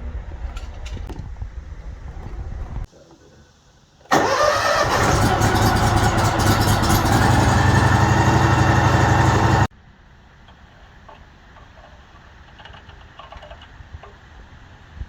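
A small petrol engine runs steadily. It then starts up about 4 seconds in with a quick rise in pitch and runs loudly for about five and a half seconds before cutting off abruptly.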